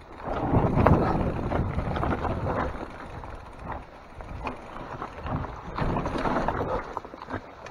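Mountain bike descending a wet, rough trail: tyres running over dirt and rocks, with frequent clicks and knocks from bumps and wind on the microphone. It is loudest for the first few seconds.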